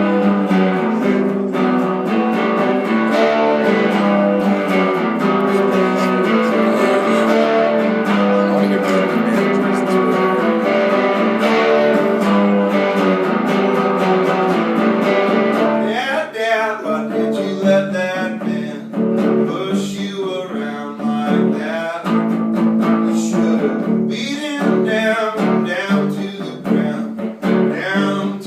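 Guitar played live, a steady strummed and picked song intro. A man's singing voice comes in a little past halfway.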